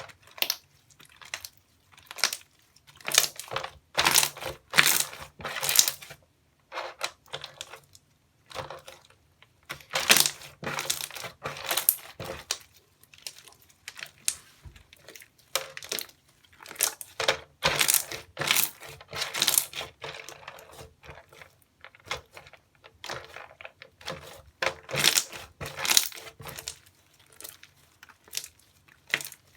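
Slime being squeezed and pressed by hand, crackling and crinkling in short bursts roughly every second or two.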